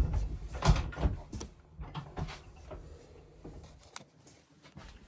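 Knocks and bumps over a low rumble, loudest in the first second and a half, then a few fainter clicks: handling and movement noise.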